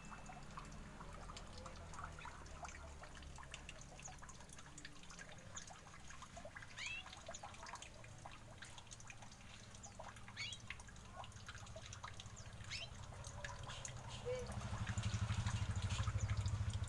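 Small aviary birds chirping: scattered short, high chirps throughout, with a low rumble growing louder near the end.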